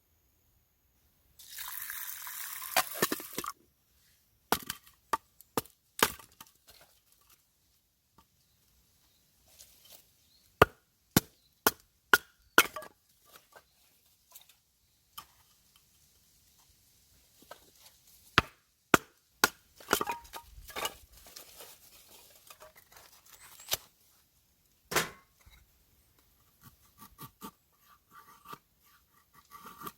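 Camp cookware and food being handled: a short rustling hiss near the start, then a string of separate sharp knocks, taps and light clinks, some with a brief metallic ring.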